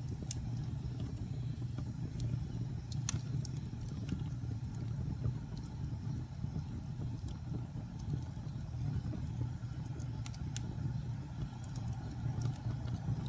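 Wood fire burning in a fireplace: a steady low rumble of flames with scattered sharp crackles and pops, the loudest about three seconds in.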